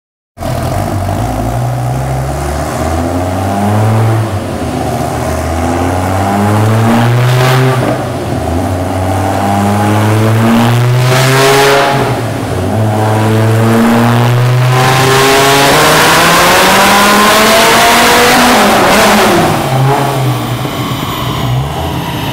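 Supercharged Dodge Viper SRT10 V10 engine at full throttle on a chassis dyno, revs climbing and dropping back at each of four upshifts, then one long pull in the top gear. Near the end the throttle closes and the revs fall away.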